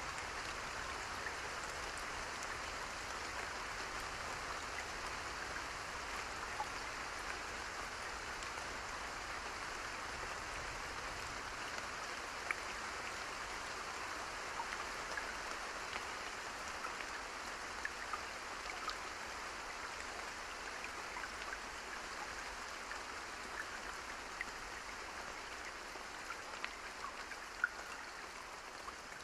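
Steady rain, an even hiss with scattered small drop ticks, easing slightly toward the end.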